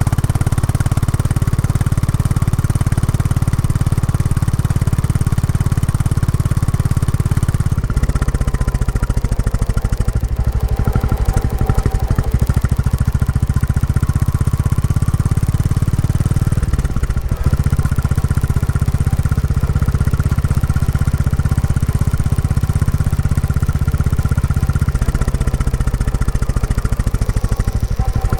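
Royal Enfield Classic 350's single-cylinder engine through its stock exhaust, running steadily under way as the bike is ridden gently during break-in. The engine note changes about eight seconds in, drops briefly around seventeen seconds in, and shifts again near the end.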